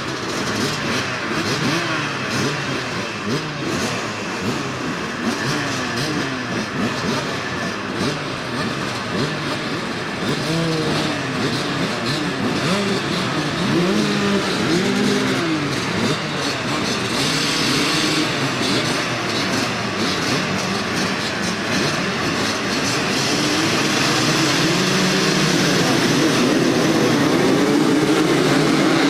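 Vintage motocross bikes racing, several engines revving up and down through the gears and overlapping, getting louder toward the end as bikes come close.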